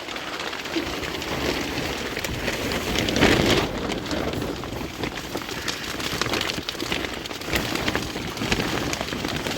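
Heavy rain falling: a steady hiss with scattered patter, swelling louder for a moment about three seconds in.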